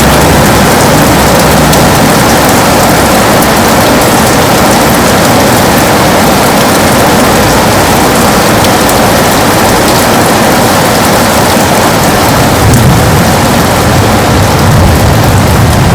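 Heavy rain pattering steadily against a window pane. A low rumble swells up in the last few seconds.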